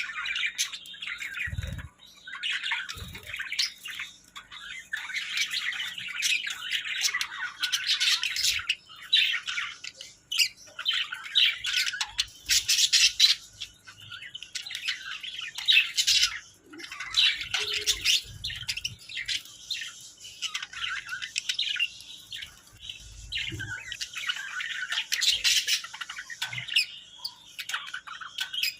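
Small pet birds chirping and chattering in a rapid, continuous stream of short high calls, with occasional harsher squawks and a few soft low thumps.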